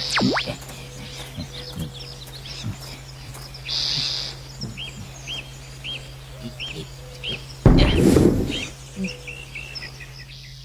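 Cartoon sound effects: a quick falling whistle at the start, then a run of short, evenly repeated bird chirps, about two or three a second. A loud, noisy burst lasting under a second cuts in about eight seconds in.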